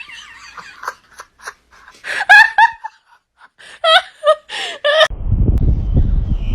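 A run of short, high-pitched calls with wavering, bending pitch, then an abrupt cut about five seconds in to a low rumbling noise like wind on the microphone.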